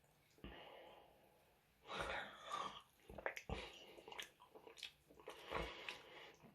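Close-up chewing and mouth sounds of someone eating chicken wings, in irregular bursts mixed with breaths.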